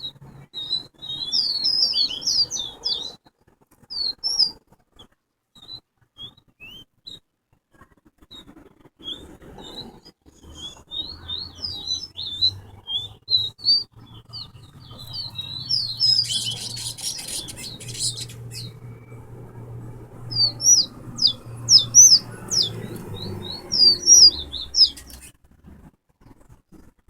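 Towa-towa seed-finch singing in rapid runs of short, high chirps with pauses between phrases. A brief rustle comes about two-thirds of the way in, and a low steady hum sits underneath through the middle.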